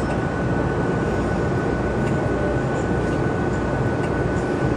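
Steady low rumble and hiss inside a tour bus: engine and air-conditioning noise, with a faint constant high whine.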